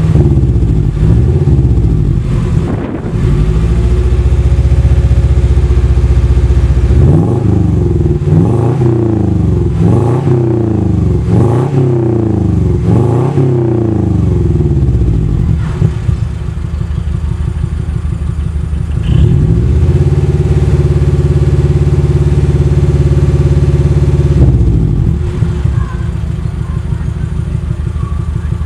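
2000 Subaru Legacy's 2.0-litre flat-four engine, breathing through Borla headers and an HKS stainless rear exhaust, being revved: a run of about five quick blips that rise and fall, a few seconds held at a steady higher speed, then settling back to a lower idle near the end.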